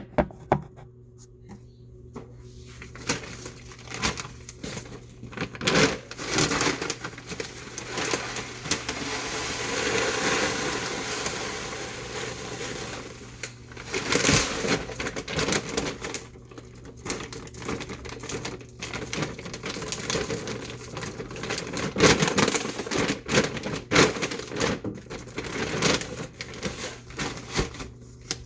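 Hands packing things up: irregular rustling and crinkling with scattered clicks and knocks, over a faint steady low hum.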